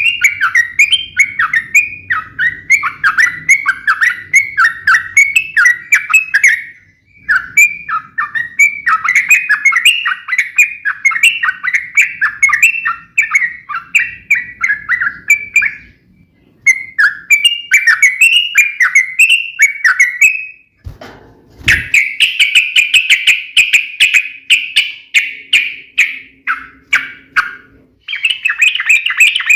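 Yellow-vented bulbul (trucuk) song: long runs of quick, sharp chirping notes, several a second, broken by short pauses. A brief low thump comes about two-thirds of the way in, followed by a denser, higher run of song.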